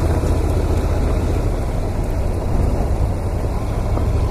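Heavy motorcycle's engine running while riding, a steady low rumble under wind and road noise, easing slightly in the middle and picking up again near the end.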